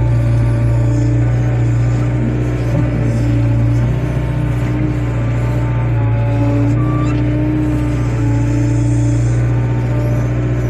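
Excavator's diesel engine running steadily under load, with a hydraulic whine whose pitch shifts slightly as the machine works.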